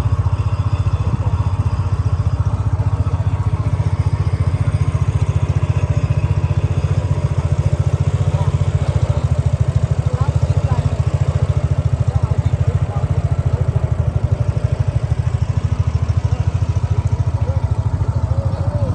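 Small boat engine running steadily close by, with a fast, even firing pulse and a deep drone; faint voices are heard under it.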